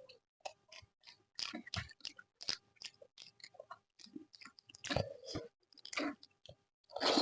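Close-miked chewing and wet mouth smacks of a person eating soft cooked vegetable curry and mashed eggplant, in an irregular run of short clicks, louder around five and seven seconds in.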